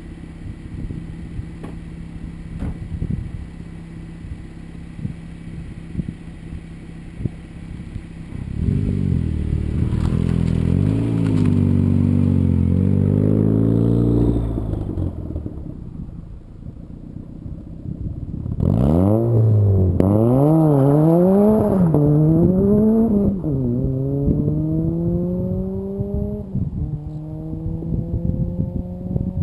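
Turbocharged Mazda Miata four-cylinder with a T25 turbo: idling, then revved up and down in place. About 19 s in it launches hard and accelerates through the gears, the engine note climbing and dropping at each shift, each gear lasting longer than the one before.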